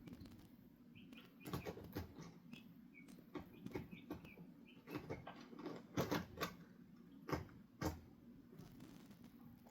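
Backyard chickens moving about close by: irregular taps, scratches and rustles, with a few short, soft high calls in the first half.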